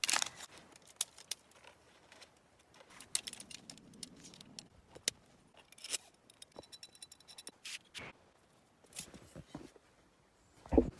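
Snow being scraped and cleared down to frozen ground: scattered light scrapes, crunches and clicks, with a heavier thump near the end.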